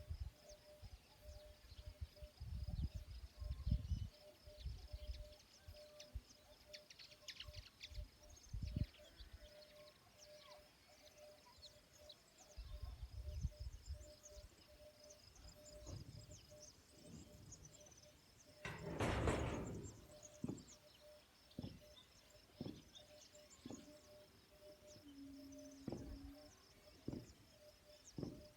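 Quiet rural outdoor ambience: a steady, rapidly pulsing high chirping runs throughout, over scattered low bumps. A louder rushing sound lasts about a second, around two-thirds of the way in, and a brief low hum comes near the end.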